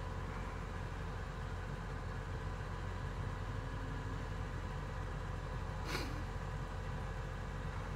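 Steady low mechanical hum, like an engine or machine running in the background. A single sharp click comes about six seconds in.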